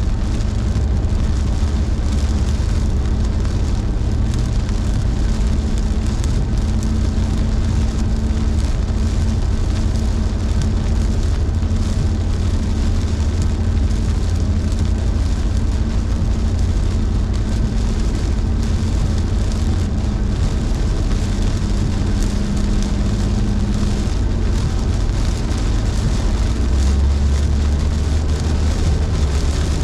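Car driving at highway speed in heavy rain, heard from inside the cabin: a steady low road and engine drone with the hiss of tyres on wet pavement and rain.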